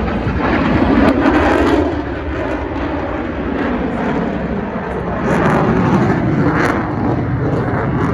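Fighter jet engine noise from a demonstration pass, a loud, steady rumble that swells about a second in and again around five seconds in.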